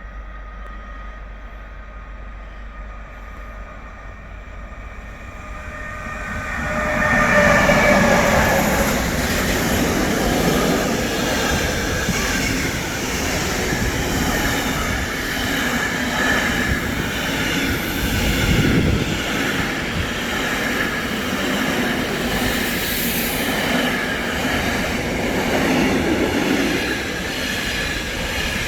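A train approaches and passes on the line. It is faint with a few thin steady tones at first, then grows loud about seven seconds in and stays loud as the cars go by.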